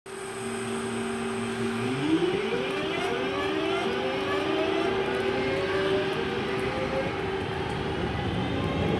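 Class 323 electric multiple unit pulling away: a steady electric hum, then from about two seconds in a stack of whining tones that rise steadily in pitch as the traction motors accelerate the train.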